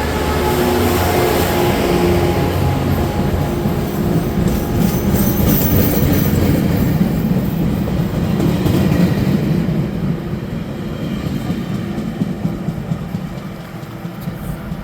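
Tri-Rail commuter train pulling out and rolling along the tracks, with a continuous low rumble and wheel noise that eases off after about ten seconds as it moves away.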